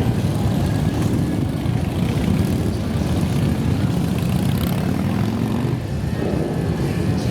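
Many motorcycle engines of a column running together, a steady dense low rumble.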